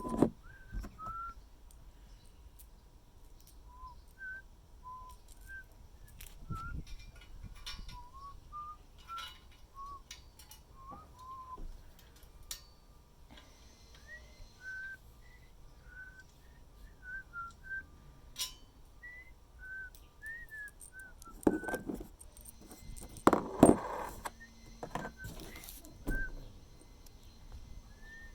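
A person whistling a wandering tune in short notes that hop up and down in pitch. Occasional knocks and clatter of parts being handled break in, loudest near the end.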